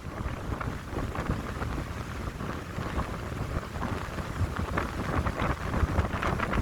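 Wind blowing through pine trees, a continuous rushing rustle, with a low uneven rumble of wind buffeting the microphone.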